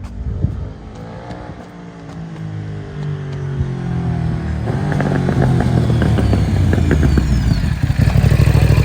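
Motorcycle engine coming closer and growing louder, its pitch gliding up and down early on. About five seconds in there is a run of crackling exhaust pops. Near the end it settles into a steady low idle close by.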